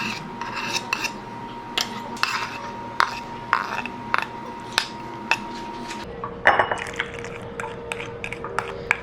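Kitchen clatter: dishes and utensils clinking and knocking in a string of separate sharp taps, over a steady faint hum.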